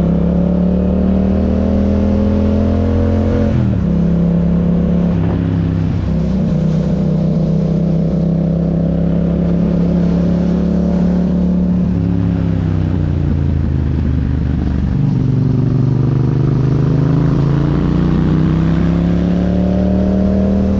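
Yamaha MT-07's 689 cc parallel-twin engine running through an Akrapovic exhaust while riding. The engine note climbs, drops sharply about three and a half seconds in, holds steady, sinks as the bike slows, then climbs again near the end.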